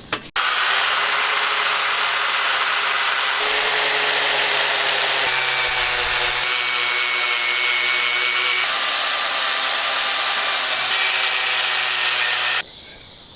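Handheld power tool running steadily for about twelve seconds. Its pitch steps a few times, then it cuts off abruptly.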